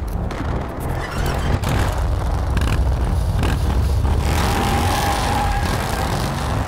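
A motorcycle engine running, mixed with background music that has a heavy bass.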